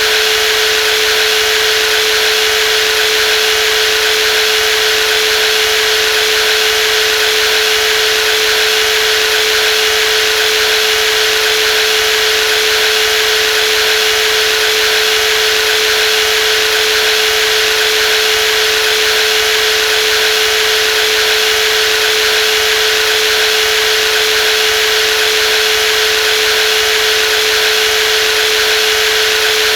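Brushless jigsaw running steadily, a constant motor whine with one strong steady tone over a wide hiss, never changing speed.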